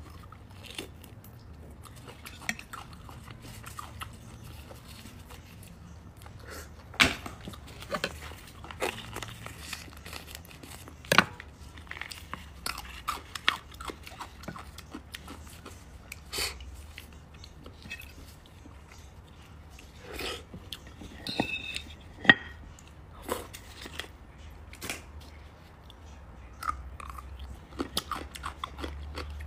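Close-miked chewing and biting of beef bone marrow, wet and soft, broken by many scattered sharp clicks and taps, a few of them loud.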